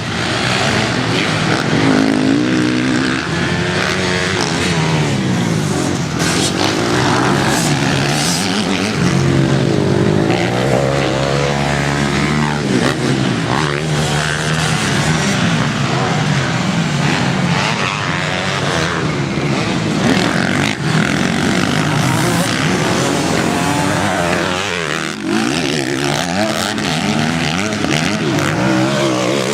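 Motocross motorcycle engine running hard, its pitch repeatedly rising and falling as the throttle is opened and shut through the gears.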